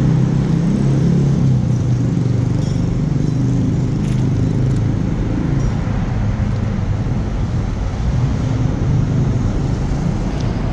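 Street traffic with the steady low rumble of an idling engine, a little stronger during the first few seconds.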